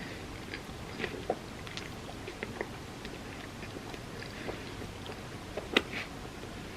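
Close-miked chewing and mouth sounds from a person eating, a run of small soft clicks, with one sharper, louder click about six seconds in.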